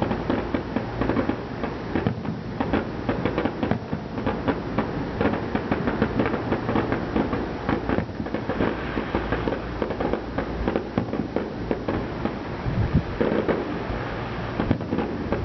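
Aerial fireworks shells bursting one after another in a dense run of booms and crackle, with a cluster of heavier low thuds near the end.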